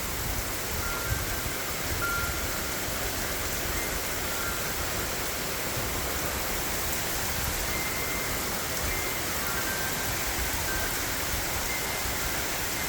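Steady rain falling, an even hiss with no let-up. Faint short high tones sound now and then over it.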